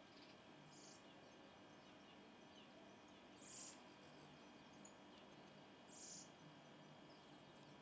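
Faint outdoor animal sounds: a short, very high-pitched chirp that repeats about every two and a half seconds, with scattered faint bird chirps over a low background hiss.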